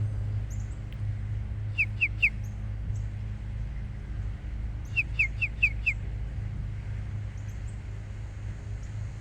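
A small bird calling in quick series of short, clear, downward-sliding chirps: three about two seconds in, then five about five seconds in. Fainter chirps come here and there, over the steady low hum of a lawn mower running.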